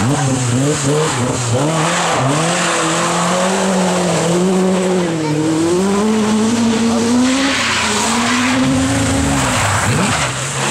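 Rally car engine revving hard, pitch rising and dropping through quick throttle changes, then held high for several seconds before falling away near the end.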